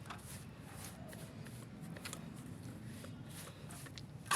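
Faint handling and rustling noises with a few scattered light clicks, and a sharper click near the end.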